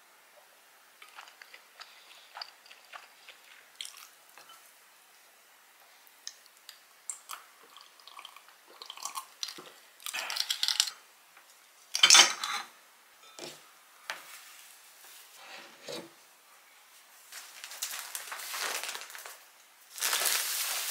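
Close-up eating sounds: chewing and biting into gimbap topped with pork-belly kimchi-jjim, with light clicks of a wooden spoon against ceramic bowls. Near the end, a plastic mailer bag crinkles loudly as it is handled.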